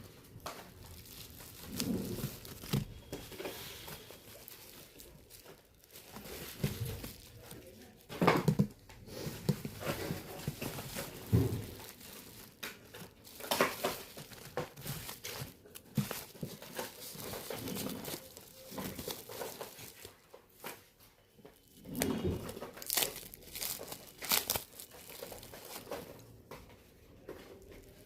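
Crinkling and tearing noises mixed with irregular sharp clicks and taps, from small smartphone parts being handled and pried apart during a teardown of a phone's ringer box (loudspeaker module).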